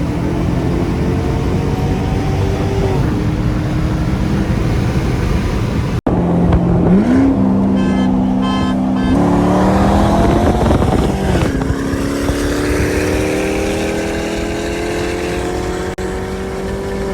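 C6 Corvette's V8 with aftermarket headers and exhaust pulling at full throttle through the gears. The pitch climbs steadily in each gear and drops at each upshift. There is a short break about six seconds in, where the sound cuts to another pull.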